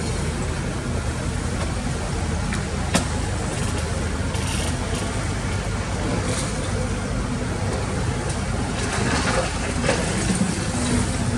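Heavy diesel engine of an excavator running steadily while it digs, with a single sharp knock about three seconds in and a few short rushing bursts later on.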